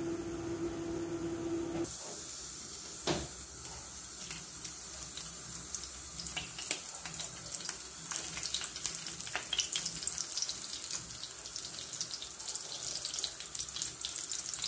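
Flour-dusted patties shallow-frying in hot oil in a frying pan: a steady sizzling hiss full of small crackles and spits. It starts about two seconds in, when a low steady hum cuts off.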